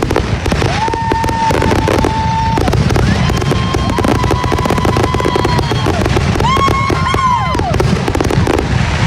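Consumer fireworks going off in quick succession: dense crackling over a low rumble of bursts, with several whistling fireworks that each rise, hold a steady whistle for a second or two, and fall away.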